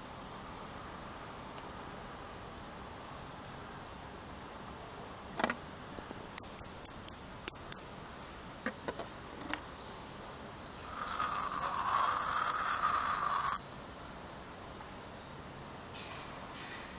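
Chinese clay teapot being handled: a quick run of sharp ceramic clinks with a high ring near the middle, then water pouring out of the spout for about two and a half seconds, which stops suddenly.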